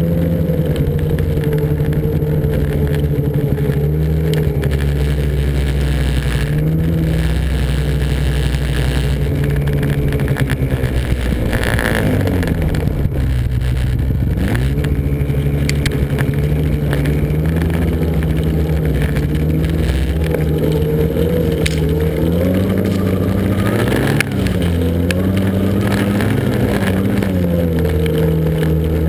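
Snowmobile engine running at steady high revs. It drops in pitch about eleven seconds in, as the throttle comes off, then climbs back up, with a brief rise and fall again near the end.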